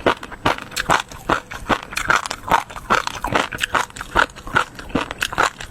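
Close-miked chewing of a mouthful of food, short wet smacks repeating about two or three times a second.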